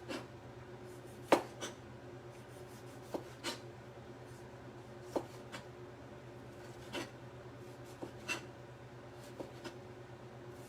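A kitchen knife cutting tomato and knocking against a cutting board in slow, irregular strokes, about a dozen in all, over a steady low hum.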